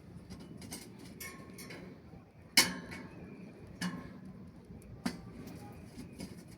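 A few sharp knocks or clinks, the loudest about two and a half seconds in, with two smaller ones after it, over a faint background hiss.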